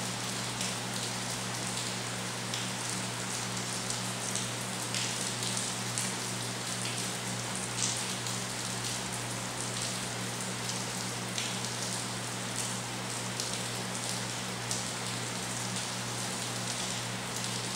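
Steady rain falling, with many individual drops ticking sharply through the constant patter. A steady low hum runs underneath.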